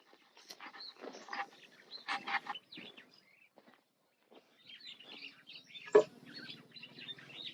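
Birds chirping, with scattered short knocks and clicks; one sharp knock about six seconds in.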